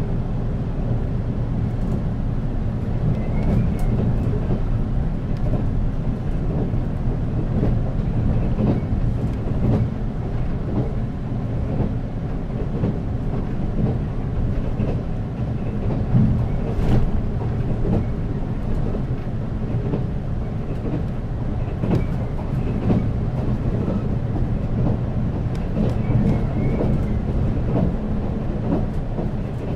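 Running noise inside a JR 485 series electric motor car (MoHa 485-1055) on the move: steady hum of the traction motors and gears under the floor with wheel and track rumble, and scattered sharp clicks, one louder about seventeen seconds in.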